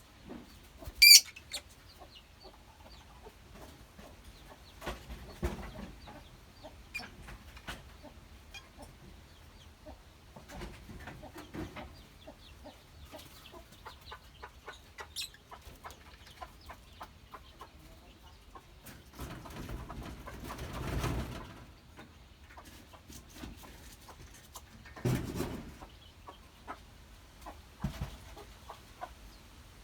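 Lovebirds in a colony cage: one loud, shrill call about a second in, then scattered faint chirps and clicks with a few low rustles.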